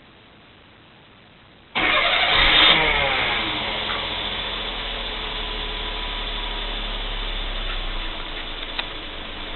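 Mazda AZ-Offroad (JB23W) 660 cc turbocharged three-cylinder engine starting: it catches abruptly about two seconds in, flares up briefly with a falling pitch, then settles into a steady idle. A couple of small clicks near the end.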